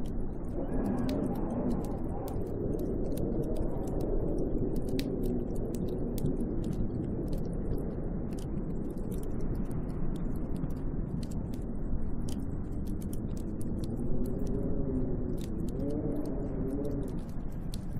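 Snowstorm wind blowing steadily, with howling tones that waver up and down in pitch, strongest near the start and again toward the end. Faint scattered ticks run through it.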